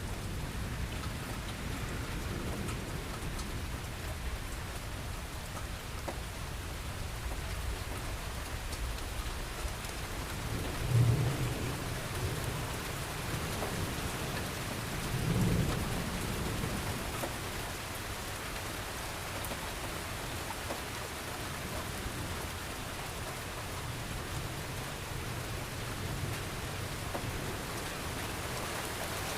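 Steady rain falling in a thunderstorm, with thunder rumbling twice, about a third and about halfway through; the first peal is the louder.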